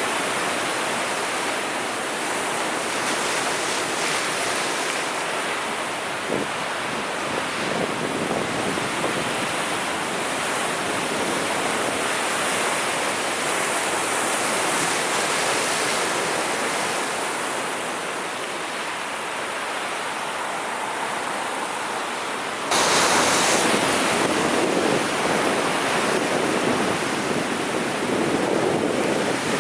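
Sea waves breaking and washing ashore: a steady surf rush. About three-quarters of the way through it suddenly becomes louder and brighter.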